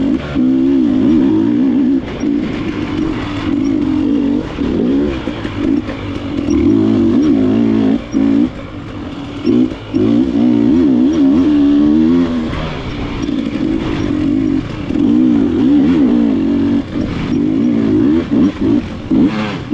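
KTM enduro dirt bike engine, the throttle worked on and off constantly so the revs keep rising and falling, with a few brief drops where the throttle is shut.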